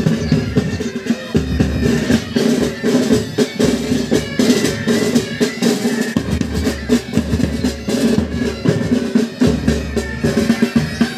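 Military pipe band playing: bagpipes with their steady drones and melody, over side-drum rolls and a bass drum beat.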